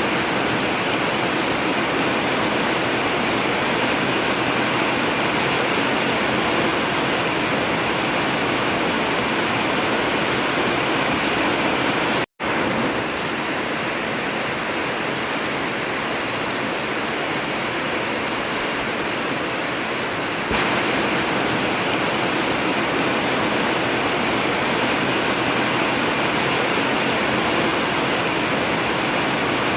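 Heavy rain falling steadily on a metal roof, an even, continuous hiss. It cuts out for an instant about twelve seconds in and comes back slightly louder about twenty seconds in.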